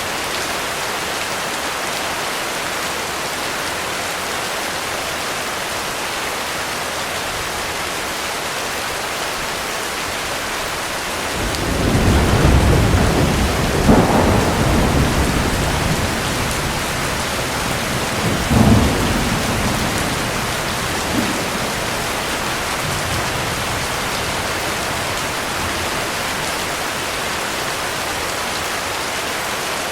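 Steady heavy rain pouring, with a roll of thunder that rises about a third of the way in, cracks loudest twice and rumbles away over several seconds.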